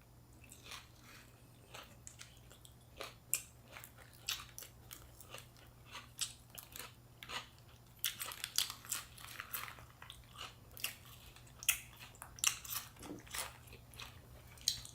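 Close-miked chewing of fresh spring rolls with raw lettuce, cucumber and bean sprouts: irregular crisp crunches and wet mouth clicks, busiest about eight seconds in.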